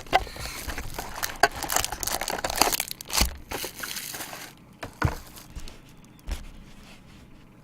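Plastic wrappers and trading card packaging being crinkled, crumpled and torn open, with irregular clicks and crackles from handling. The noise is busiest in the first few seconds and thins out near the end.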